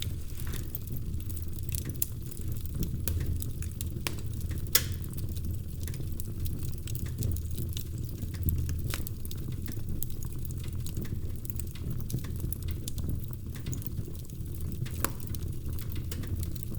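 Wood fire crackling in a fireplace: a steady low rumble of burning with frequent small crackles and scattered sharper pops, the loudest pop about five seconds in.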